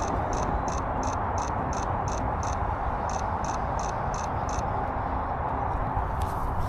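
A small bird calling a short, high note over and over, about three times a second, with a brief break near the middle. It stops about four and a half seconds in. A steady rushing background noise runs under it, and a few rustles come near the end.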